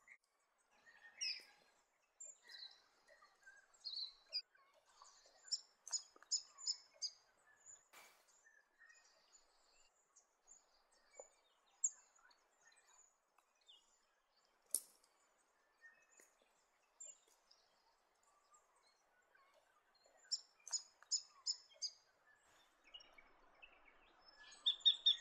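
Wild birds calling: scattered chirps, with two quick runs of about five high notes, one about six seconds in and one about twenty-one seconds in. A couple of sharp clicks are heard over a faint outdoor hiss.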